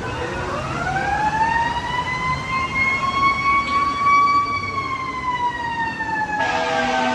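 A siren-like wail: a single pitched tone that rises over about two seconds, holds, then slowly falls. Music cuts in near the end.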